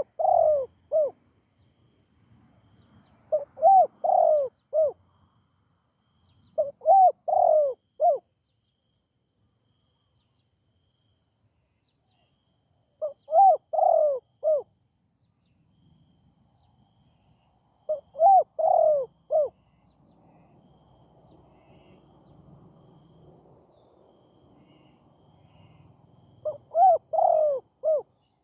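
Spotted dove cooing: six phrases of three or four arched coos, each about a second and a half long, several seconds apart.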